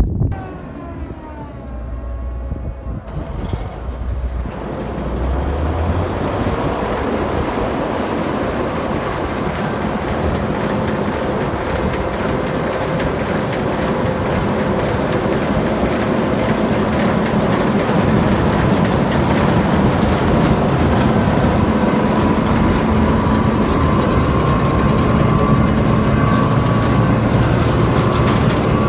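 Combine harvester running and harvesting soybeans. Its noise builds over the first few seconds, then holds as a steady, loud mechanical din with a constant hum.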